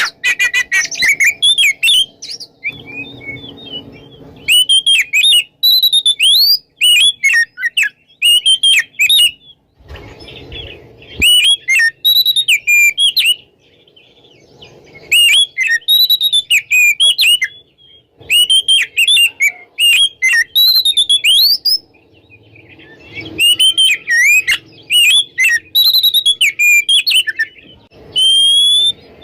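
An Oriental magpie-robin (kacer) sings full, loud song in repeated bouts of rich whistled phrases with fast rising and falling notes, separated by short pauses. A brief low rumble comes about ten seconds in.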